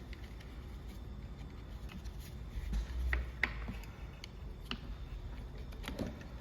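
Scattered light clicks and taps of small parts and tools being handled during repair work, with a brief low rumble a little under halfway through.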